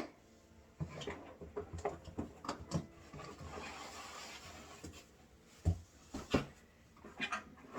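Unpacking noises: plastic packaging rustling and light clicks and knocks of plastic vacuum accessories being handled, with two sharper knocks a little after the middle.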